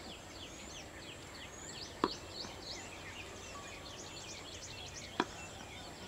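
Birds chirping steadily in many short, falling notes, with two sharp knocks, one about two seconds in and one near the end.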